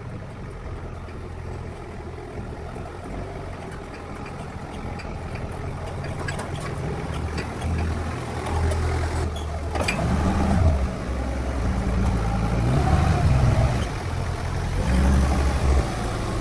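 An engine running, its speed rising and falling, getting louder in the second half.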